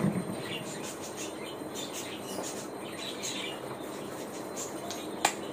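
Small birds chirping in short, scattered high calls over a steady background noise, with a single sharp click about five seconds in.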